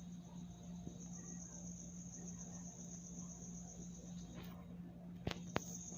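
Crickets trilling steadily at night over a low steady hum, the trill dropping out briefly a little after four seconds in. Two sharp clicks come about five seconds in.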